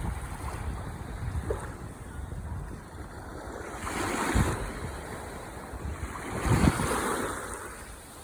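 Ocean waves washing onto the shore, a steady surf hiss that swells twice, about four seconds in and again around seven seconds, as waves break and rush in.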